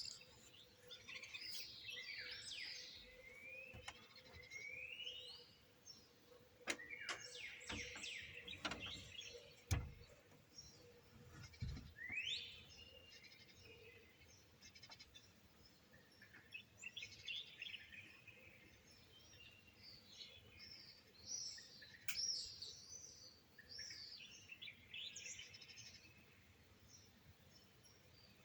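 Small songbirds singing and chirping, with quick rising and falling notes and trills that come and go in overlapping phrases. A few sharp clicks or knocks cut in, the loudest about ten seconds in.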